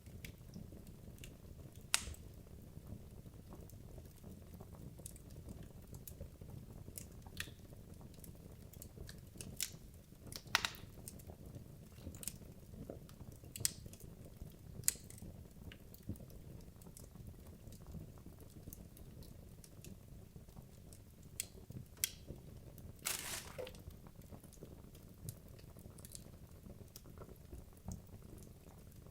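Wood logs burning in a fireplace: a low steady rumble of flames with irregular sharp crackles and pops, a dozen or so standing out, one longer sizzling crackle about 23 seconds in.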